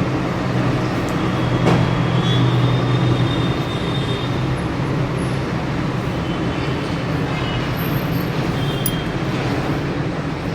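Steady low mechanical hum with a noisy rumble underneath, unchanging throughout.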